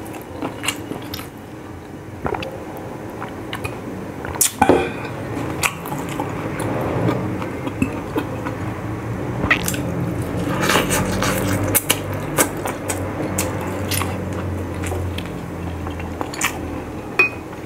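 Close-miked chewing and mouth sounds of a person eating boiled pork on the bone, with scattered sharp clicks and smacks.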